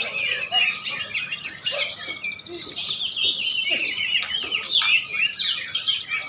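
Many caged songbirds singing at once in a bird-song contest: a dense, continuous chorus of overlapping high chirps and trills.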